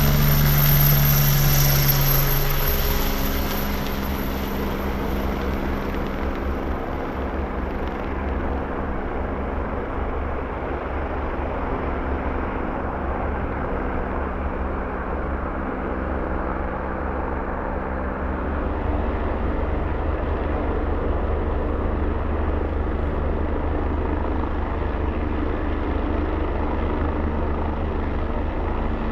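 Helicopter turbine and rotor noise. It is loudest at the start, where a high-pitched turbine whine fades over the first few seconds, then settles into a steady rotor noise that grows a little louder again about two-thirds of the way through.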